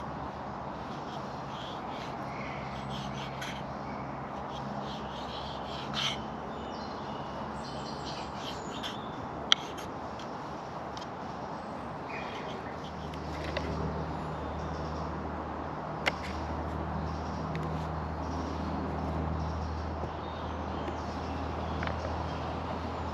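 Outdoor background with occasional crow-like cawing calls and a few sharp clicks. A low steady hum sets in a little over halfway through.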